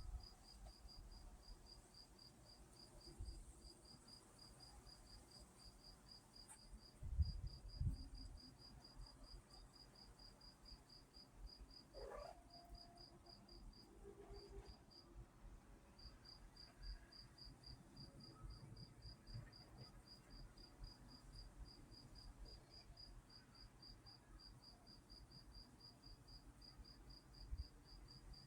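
A cricket chirping steadily, about three short high chirps a second, with a short pause about halfway through. A brief low rumble sounds about seven seconds in.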